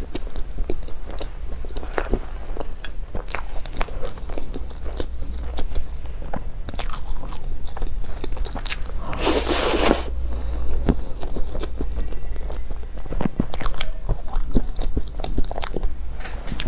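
Biting into and chewing a crispy-crusted half-baked cheesecake: many small crunches and clicks throughout, with a louder noisy burst lasting under a second about nine seconds in. A steady low hum sits underneath.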